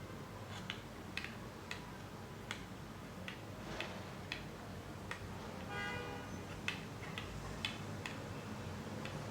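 Light, irregular metallic clicks and taps of a tool against the stainless-steel frets of an electric guitar during fret levelling, about one or two a second. A short metallic ring sounds about six seconds in.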